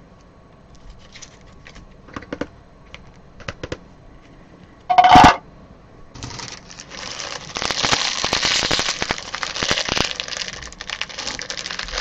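Soft clicks of cards and plastic being handled, then one short loud knock about five seconds in. From about six seconds on, a trading-card pack's wrapper crinkles steadily as it is torn open and handled.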